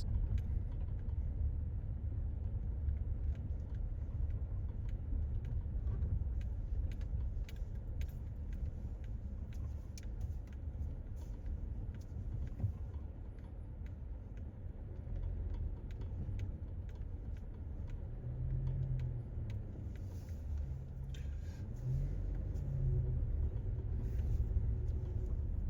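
Low, steady rumble of a car driving slowly, with scattered faint clicks and knocks.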